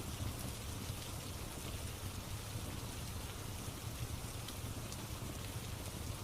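Steady rain with a low rumble underneath and a few faint, scattered crackles from a wood fire.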